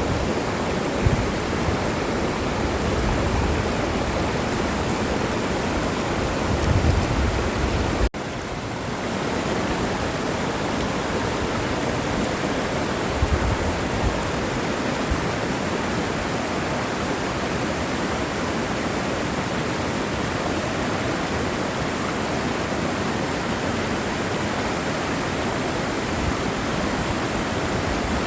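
Mountain valley stream rushing steadily over rocks, with a few short low rumbles; the sound drops out for an instant about eight seconds in.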